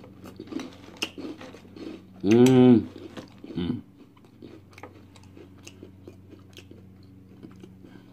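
Crunchy cereal in milk being chewed close to the microphone, with small crackling crunches throughout. About two seconds in comes a loud hummed 'mmm' that rises and falls in pitch, and a shorter one follows a second later.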